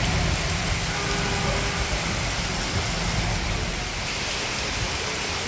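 Heavy rain pouring steadily onto a waterlogged street and a parked car, with a low rumble underneath.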